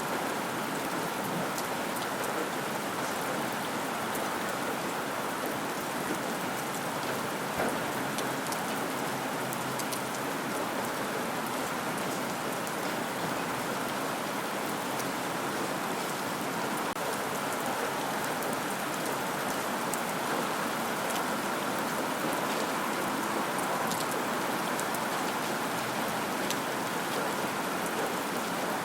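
Steady rain falling, a dense even hiss dotted with fine drop ticks, one tap slightly louder about seven seconds in.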